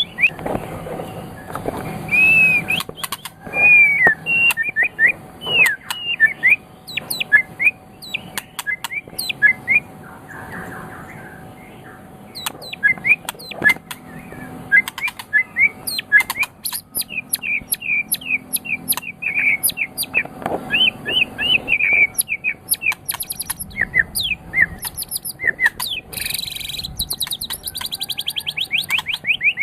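White-rumped shama (murai batu) singing: a fast, varied string of short whistled chirps and sharp clicking notes, with a rapid trill of repeated notes near the end.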